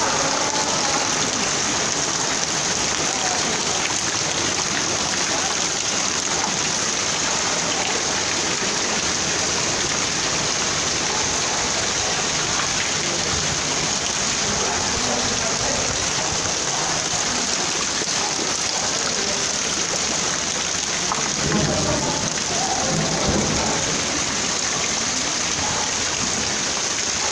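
Heavy rain pouring steadily onto hard surfaces, a dense unbroken hiss. A few low thuds and a brief rumble come about three-quarters of the way through.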